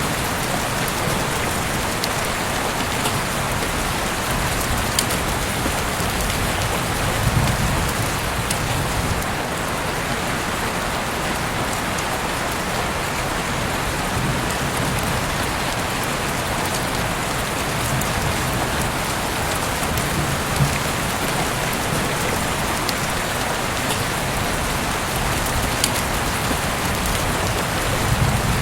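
Heavy rain falling steadily, a dense even hiss with scattered sharp drop ticks and low swells.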